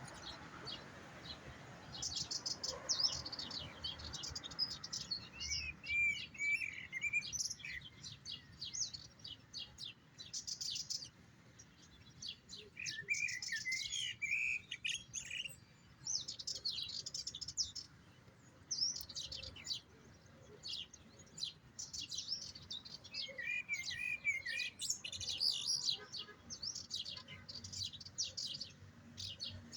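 European goldfinch singing: long runs of rapid, high twittering notes with brief pauses between phrases and lower rolling trills now and then.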